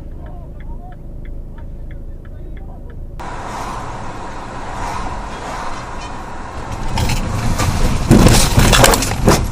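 Car driving, heard from inside: low road rumble with a regular light ticking at about three a second. After a cut, louder road and engine noise builds into a burst of loud bangs and crunching near the end, the sound of a collision.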